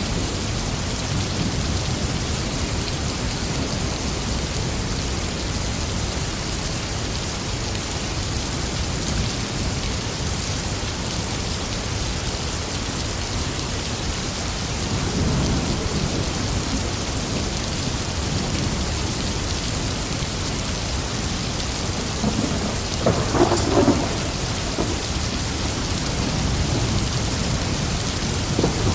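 Steady heavy rain falling on surfaces with rolling thunder rumbling underneath; a low swell of thunder about halfway through and a sharper crackling thunderclap a few seconds before the end.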